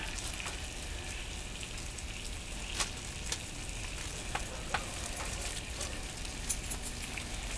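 Ground beef frying in a pan: a steady sizzle with a few sharp pops.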